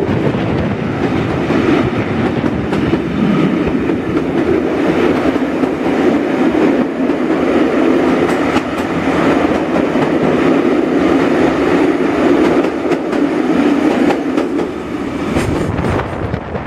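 A coach of the Jacobite steam train running along the track, its wheels clattering over the rails, heard from an open carriage window. The rumble is steady and loud and thins out near the end.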